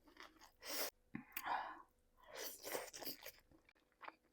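Close-miked chewing and wet mouth sounds of someone eating curry and rice, coming in several short bursts with brief pauses between.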